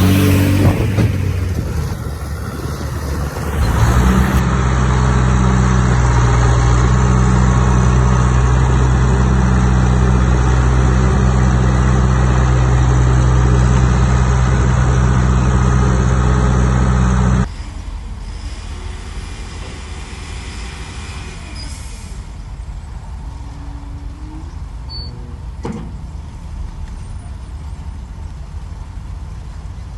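Heavy-equipment diesel engine running loud and steady. About seventeen seconds in, the sound drops suddenly to a quieter engine running.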